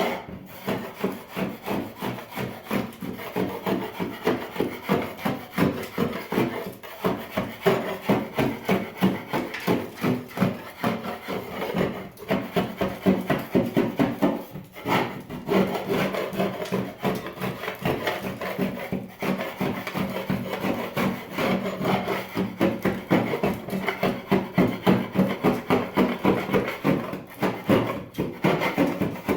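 Paint being scraped off a surface with a scraper, in quick repeated strokes about two or three a second, with short breaks now and then.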